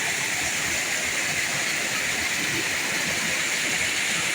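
Steady rushing and splashing of water pouring from an irrigation channel (kulo), a small man-made cascade.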